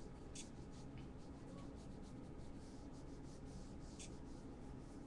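Faint scratching of quick sketching strokes on a drawing surface: short strokes, two of them sharper, about half a second in and about four seconds in, over a steady low room hiss.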